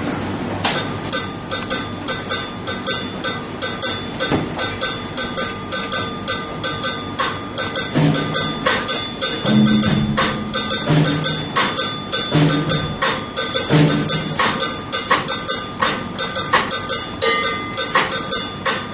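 Drum set played in a timbale-style Latin pattern: a fast, even run of strikes on a mounted cowbell, about four or five a second, with low drum hits coming in from time to time.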